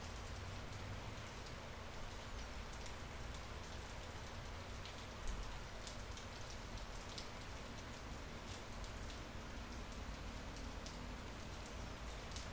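Natural rain falling under an almond tree: a steady patter with scattered single drops ticking sharply. One louder drop strikes about five seconds in.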